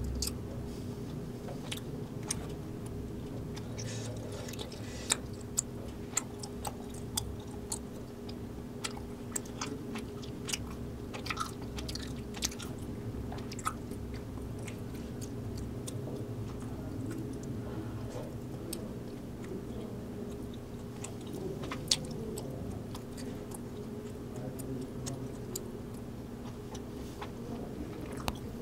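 Close-miked chewing of spicy rice cakes (mala tteokbokki), with frequent short sharp clicks over a steady low background hum.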